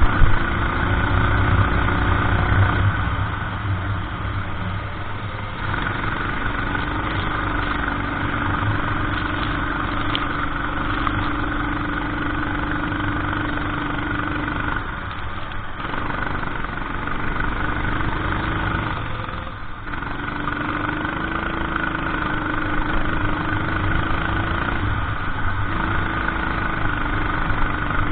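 Racing kart engine running at high revs through a lap. Its pitch climbs along the straights and drops away briefly several times as the driver lifts off for corners.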